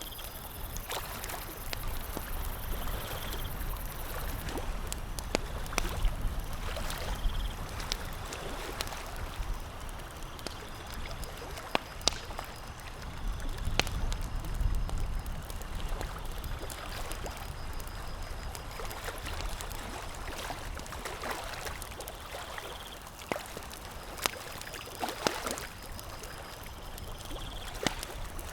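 Campfire crackling, with sharp pops scattered irregularly over a steady hiss and low rumble.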